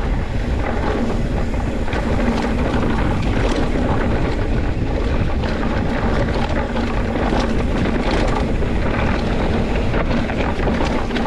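Loud wind buffeting the microphone over a steady rough rumble, as of moving fast down a loose, dusty dirt trail.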